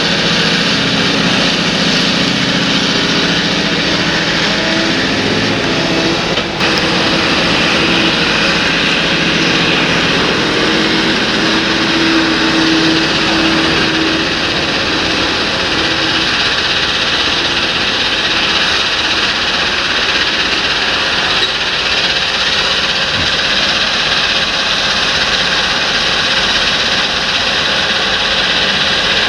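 Large John Deere tractor's diesel engine running steadily under working load, with a dense, even mechanical noise. There is a brief break about six and a half seconds in.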